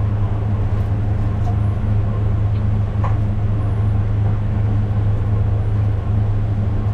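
A steady, loud low machine hum with an even pitch, from a running motor or fan, with a couple of faint clicks.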